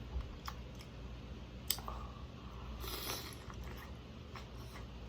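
Close-up eating sounds of someone chewing a seafood meal. Sharp clicks and smacks come at odd moments, with a longer crunchy, wet noise about three seconds in.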